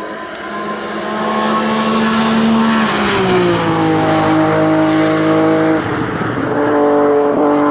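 Race car's engine at high revs under full throttle. About three seconds in, the note glides down in pitch as the car passes. Near six seconds there is a short break in the note as it changes gear.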